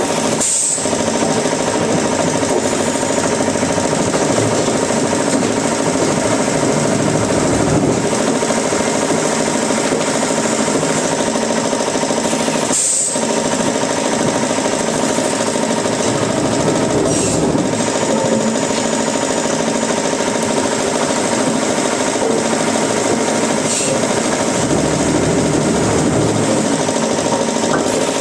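Woodworking machinery running steadily, a continuous mechanical din broken only by a few brief dips.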